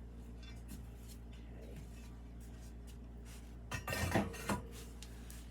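Glazed ceramic pieces clinking and knocking against each other and the kiln as they are lifted out of the bottom of a glaze kiln: a short cluster of clinks with a brief ring about four seconds in, over a low steady hum.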